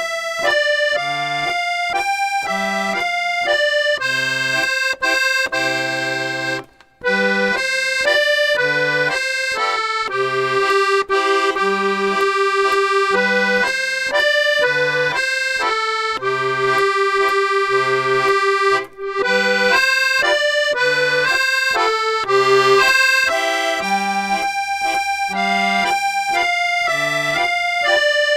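Accordion music: a bouncy melody over an oom-pah bass and chords, with two brief breaks.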